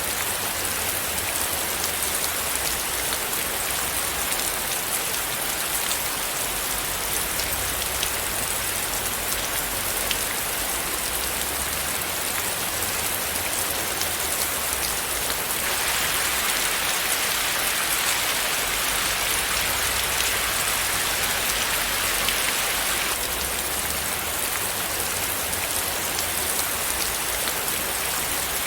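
Steady rain falling, a dense hiss of many fine drops over a low rumble. It grows louder and heavier for several seconds a little past halfway, then eases back.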